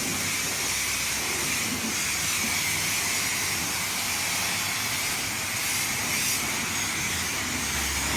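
Car-wash spray wand blasting water in a steady, unbroken hiss.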